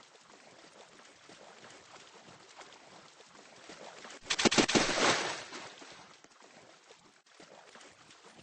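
Beach surf: a steady rush of water, with a louder wash about four seconds in that fades over a second or two.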